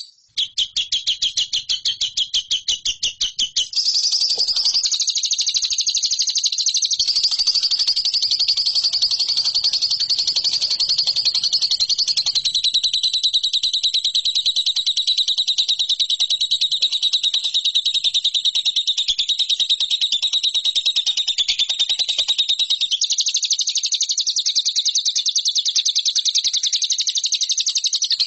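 Lovebird singing: quick chirped notes about six a second, which run together after a few seconds into a long, unbroken, high chattering trill.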